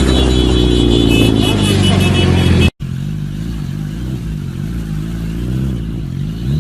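Motorcycle engines across two clips. First a loud engine note slowly falls in pitch. Then, after an abrupt cut, a quieter engine's pitch rises and falls over and over, as with repeated throttle blips or riding over bumps.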